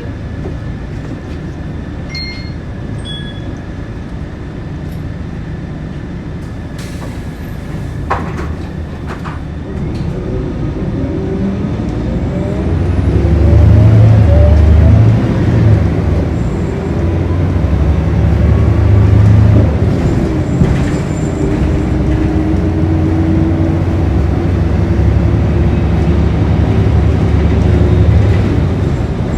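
Scania L113CRB bus's diesel engine idling with a few short clicks, then pulling away about ten seconds in, its note climbing and changing pitch as it gathers speed and then running loud under load.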